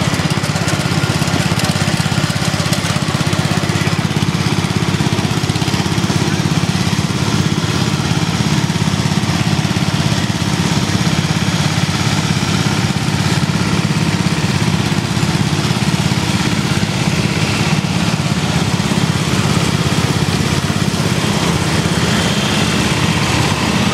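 Small engines of lawn and garden tractors running steadily, with an even low drone and no breaks.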